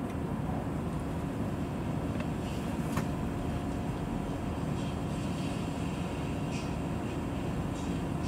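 Steady low engine rumble of idling vehicles, heard from inside a car waiting in a queue, with a faint steady hum over it and a single sharp click about three seconds in.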